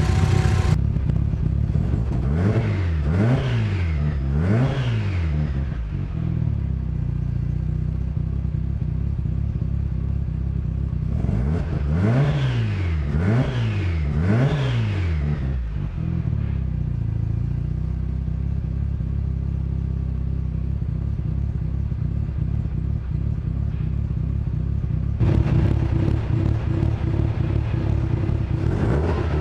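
Mazda RX-7 FC3S's turbocharged rotary engine idling, then blipped three times in quick succession, the revs climbing and dropping each time. The same three blips come again about halfway through, and it is revved again near the end.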